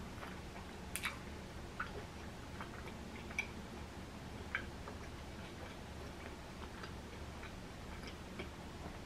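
Faint mouth sounds of chewing crispy Flamin' Hot Cheeto-crusted fried food: a few scattered sharp crunches and clicks, the loudest about a second in.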